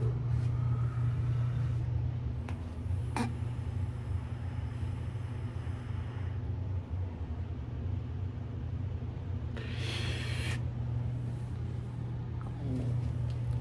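Steady low hum, with two faint clicks about three seconds in and a brief hissing rush about ten seconds in.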